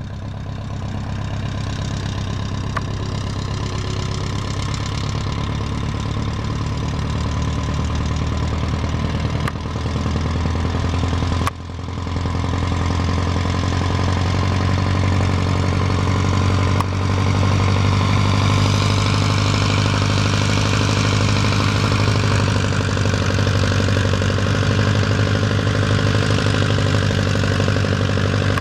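1946 Cessna 120's four-cylinder air-cooled engine and propeller running steadily at low taxiing power. It drops out briefly about eleven seconds in and runs a little louder from just past halfway.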